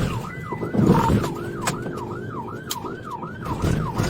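Police car siren on a fast yelp, its pitch sweeping up and down about three times a second, over the low rumble of the car driving on a rough two-track, with a few sharp knocks.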